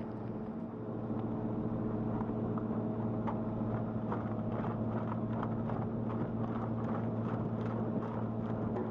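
Wood chipper running steadily under load, its engine droning at an even pitch, with frequent irregular cracks and snaps of wood being broken up.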